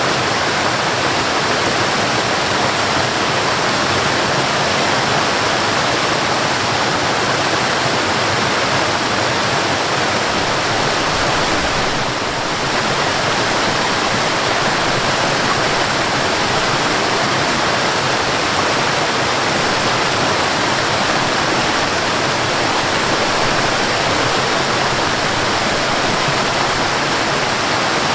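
Waterfall: a steady, unbroken rush of falling water, dipping slightly for a moment about twelve seconds in.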